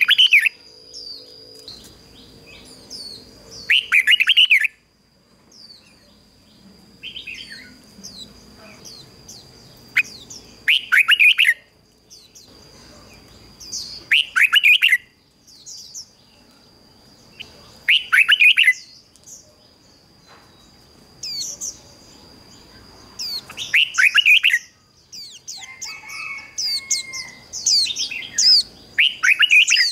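Red-whiskered bulbul (chào mào) decoy singing short, loud warbling phrases about every three to four seconds, with a thin steady high tone underneath.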